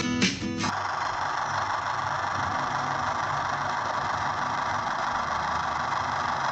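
A motor running steadily, an even mechanical whirr with a low hum beneath. It starts about half a second in, as guitar music cuts off.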